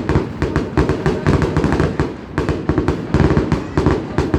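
Fireworks going off in a rapid, continuous barrage of bangs and crackles, several reports a second.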